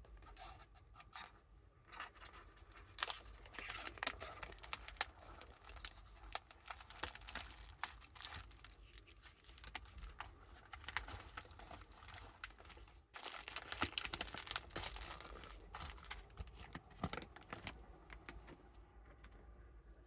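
Packaging being handled by hand, crinkling and tearing in irregular bursts, with a brief pause about thirteen seconds in.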